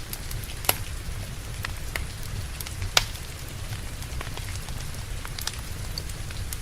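Wood fire crackling with scattered sharp pops, two of them louder (under a second in and at about three seconds), over steady rain and a low rumble.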